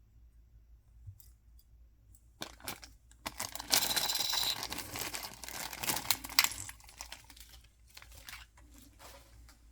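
Toy packaging being torn open and crinkled by hand. There is a burst of rustling and tearing a couple of seconds in, with a sharp click near the end of it, followed by softer rustles.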